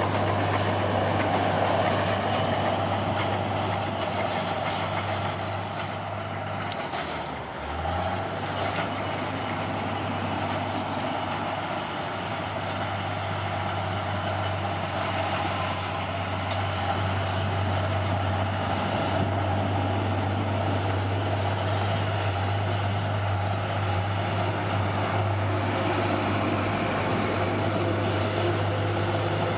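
Caterpillar D6R bulldozer's diesel engine running steadily under work. About seven seconds in, the engine note briefly sags lower, then picks back up.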